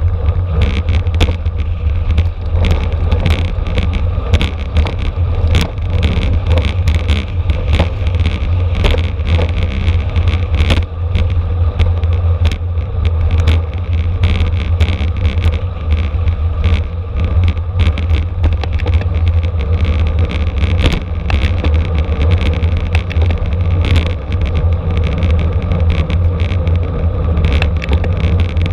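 Wind buffeting the microphone of a camera riding on a racing bicycle at speed, a steady low rumble with road noise and frequent sharp rattles and clicks.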